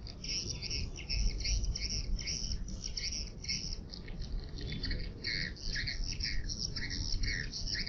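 Swiftlet calling sound: rapid, densely repeated twittering chirps of edible-nest swiftlets, the lure played through tweeters to draw swiftlets into a nesting house, over a steady low rumble.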